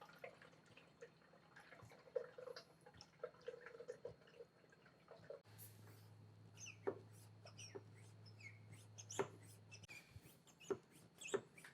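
Faint drips, trickles and small clicks of brake fluid being poured into a pressure bleeder's plastic tank, with a faint low hum for about four seconds in the middle.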